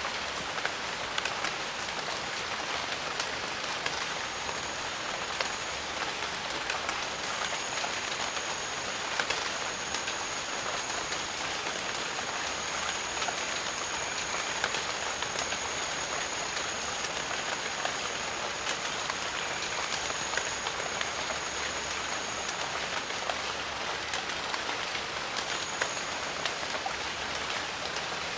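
Steady rain in a jungle: an even hiss of falling rain with many scattered individual drips. A thin, steady high tone comes in about four seconds in, drops out, and returns briefly near the end.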